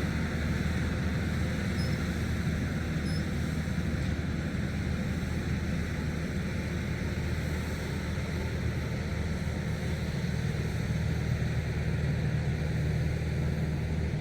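Tractor engine running steadily at constant speed, an even low hum with a noisy mechanical wash over it.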